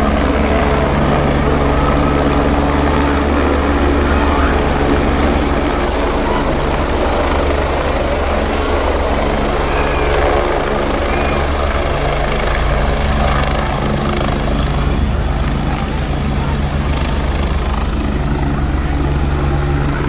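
Helicopter running steadily at a constant loud level, its rotor and engine giving a continuous low drone.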